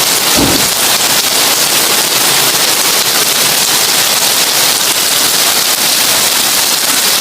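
Heavy rain drumming on a tin roof, a loud, steady, dense hiss of drops. A brief low thud sounds about half a second in.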